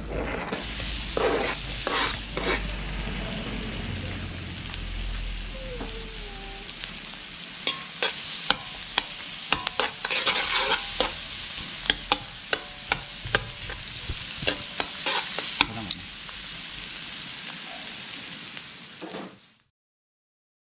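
Sliced onion and garlic sizzling in melted butter in a metal wok while being stirred, with many sharp clacks of a metal utensil against the pan, thickest in the middle stretch. The sound cuts off abruptly near the end.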